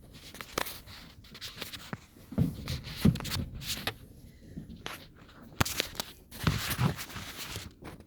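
Fireworks going off: several low thumps of bursts, with sharp cracks and a stretch of crackling near the end, heard from inside a car.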